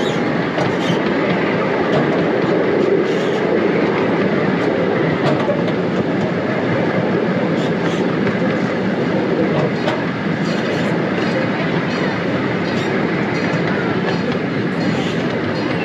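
Miniature park train's open passenger cars rolling along the track in a steady rumble, with occasional clicks from the wheels over the rails.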